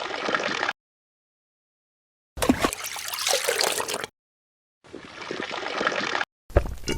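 Water trickling and splashing in a miniature diorama pond, heard in three short clips split by abrupt silences.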